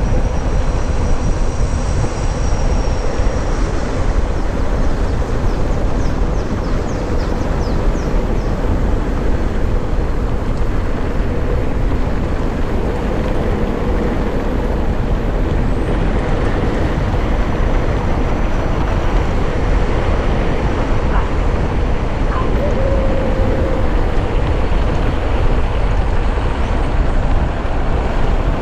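Steady wind rush and rumble on the helmet-mounted action camera's microphone while riding a mountain bike along a trail, with tyre and frame noise over the rough ground.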